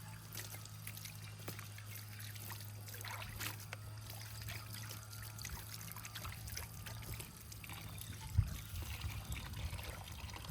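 Water trickling, with scattered small clicks and knocks. A steady low hum stops about two-thirds of the way through, and a single thump comes near the end.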